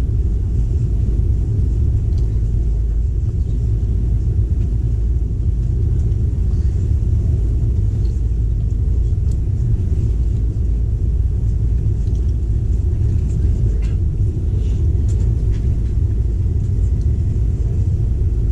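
Passenger train running at speed, giving a steady low rumble with faint light ticks and rattles above it.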